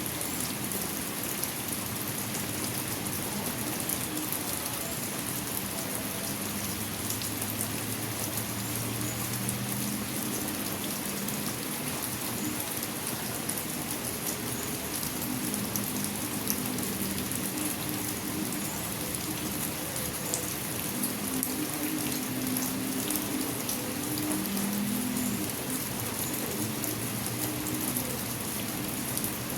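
Steady rain falling, a dense even patter of drops, with a faint low hum that comes and goes beneath it.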